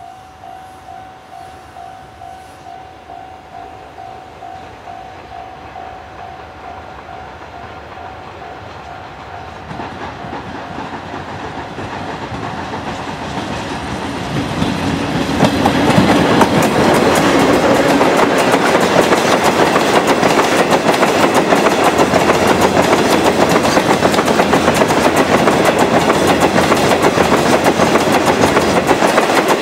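Freight train hauled by a Chichibu Railway Deki 500-class electric locomotive approaching and then passing close by, with wheels clattering over the rail joints. The rumble builds slowly and turns into loud, continuous clatter about halfway through. For the first ten seconds a pulsing tone repeats about twice a second over the approach, then stops.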